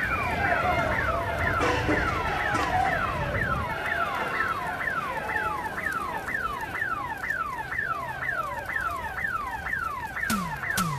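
Car alarm sounding, a tone that sweeps downward over and over, about three times a second, over a low rumble that dies away after a few seconds. Near the end, heavy drumbeats of the closing theme music come in.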